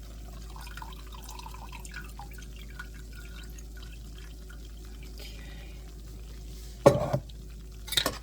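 Liquid from a jar of seasoned chicken dribbling and dripping into a cup, with two sharp knocks near the end.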